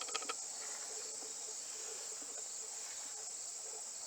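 Steady high chirring of a cricket chorus, with a few faint clicks right at the start.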